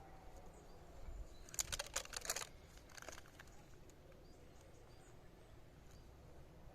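A brief burst of crackling and rustling about one and a half seconds in, with a few more crackles a second later, over quiet outdoor ambience with faint bird chirps.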